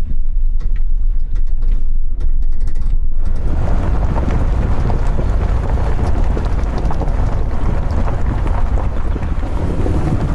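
Wind buffeting the microphone: a loud, even rushing noise with heavy low rumble that sets in about three seconds in. Before that, a low rumble with a run of light clicks.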